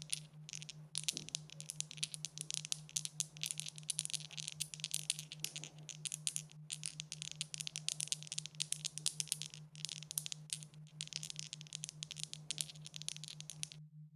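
Dice rattling in a long, continuous run of dense clicks with a few short breaks, stopping shortly before the end. A low, evenly pulsing hum runs underneath throughout.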